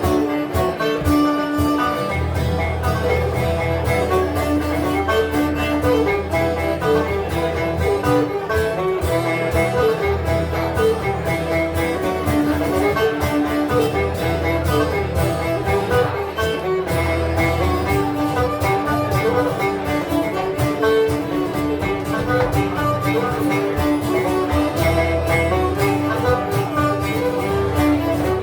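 Live folk band playing an instrumental dance tune, led by strummed 12-string acoustic guitar and plucked banjo, with a steady bass line.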